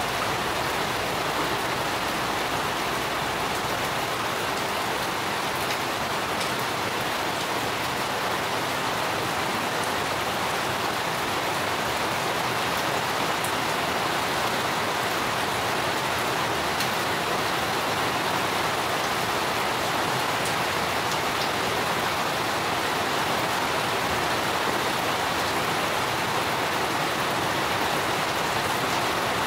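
Steady rain falling on garden plants, an even hiss that holds at one level throughout.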